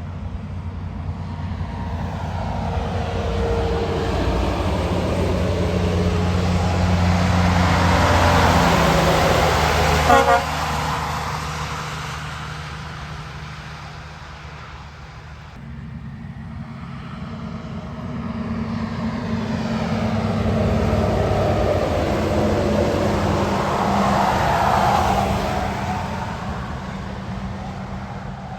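Heavy trucks driving past one after another, engines and tyre hiss building and fading with each pass. The first gives a short horn toot as it goes by, about ten seconds in.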